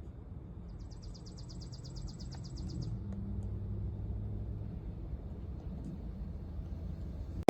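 Low steady vehicle rumble that grows a little louder about three seconds in, with a brief rapid high-pitched trill from about one to three seconds in.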